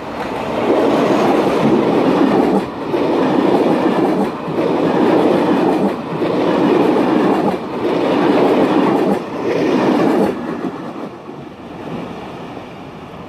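Passenger train passing close at speed, its wheels and coaches rushing by with a loud noise that swells and dips about every second and a half. The noise drops off sharply after about ten seconds as the last coach goes by and fades as the train recedes.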